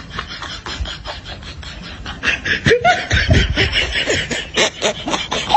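Laughter: choppy bursts of laughing that get louder and more intense about two seconds in.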